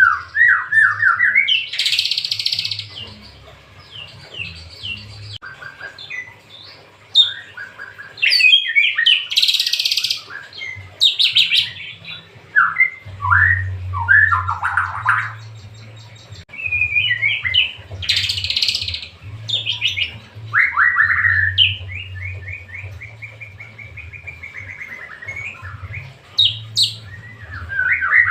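White-rumped shama singing in full, non-stop song: a long run of varied whistled phrases and rapid trills, broken by a few loud harsh, scratchy bursts.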